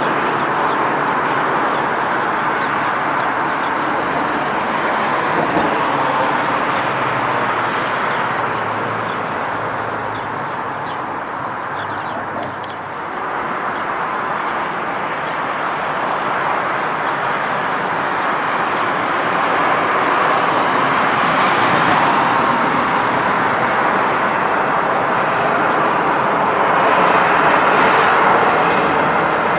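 Jet airliner engines, a loud steady noise that eases a little about halfway through and builds again toward the end, with a thin high whine coming in near the middle.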